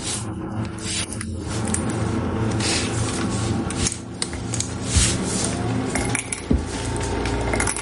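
Repeated clinking and clattering of small hard objects, irregular and scattered throughout, over a steady low hum.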